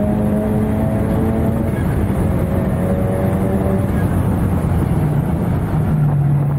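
Tuned Honda Civic Type R's turbocharged 2.0-litre four-cylinder, heard from inside the cabin, pulling hard at full throttle down a straight. Past halfway the driver lifts off and brakes hard. The engine note turns rougher, and a lower tone comes in near the end.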